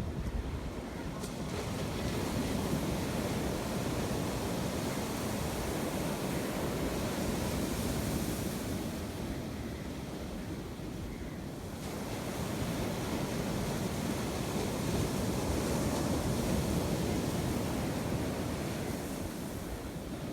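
Sea waves breaking and washing ashore in a continuous roar that swells and eases slowly, twice, with wind buffeting the microphone.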